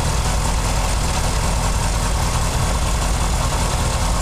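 2004 Honda CBR600RR's inline-four engine idling steadily, run after an oil change to circulate the fresh oil.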